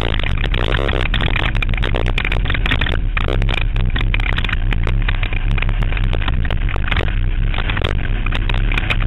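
Banger racing car running on the track: a dense, low engine rumble with many short rattles and knocks over a steady noisy background.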